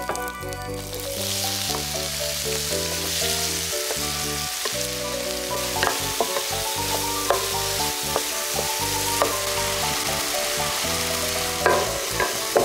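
Diced tomatoes and garlic sizzling in hot oil in an electric hot pot, the sizzle setting in about a second in, as a wooden spatula stirs them with a few short knocks against the pan.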